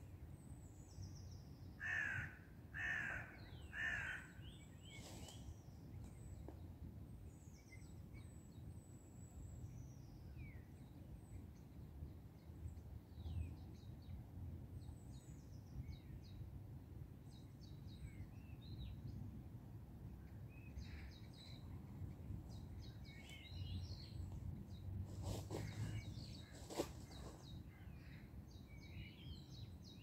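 A large bird gives three loud calls about a second apart, while small birds chirp and twitter on and off throughout.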